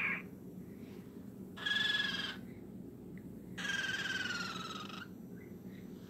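Two clear whistled bird calls: a short steady note, then a longer one that falls slightly in pitch.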